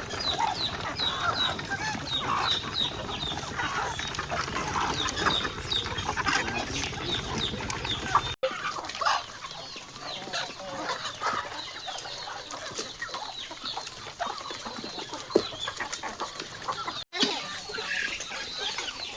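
A flock of chickens clucking, with many short high chirps over the clucking. The sound drops out for an instant twice.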